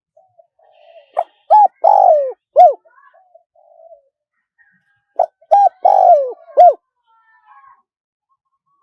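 Spotted dove cooing in a high voice: two phrases about four seconds apart. Each is two short notes, one long falling coo and a clipped final note.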